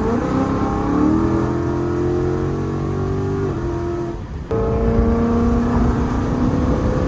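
A 2018 Mustang GT's 5.0 Coyote V8 running under throttle through Stainless Power long-tube headers and a Ford Performance by Borla cat-back exhaust. The note rises in pitch near the start and then holds fairly steady. About four and a half seconds in, an abrupt cut jumps to a louder, steady engine note.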